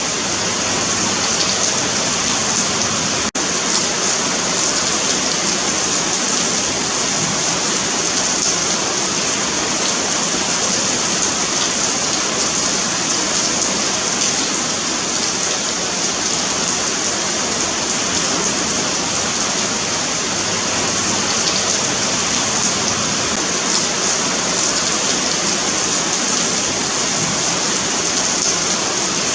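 Steady rain falling on a pavement, a dense even hiss of drops, with a momentary dropout about three seconds in.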